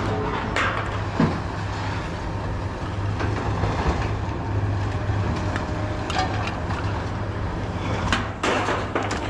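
A vehicle engine running steadily with a low hum, with scattered knocks and a burst of clatter about eight seconds in.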